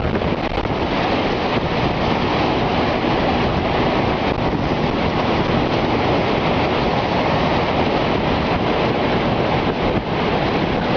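Strong wind making a loud, steady roar, buffeting the microphone.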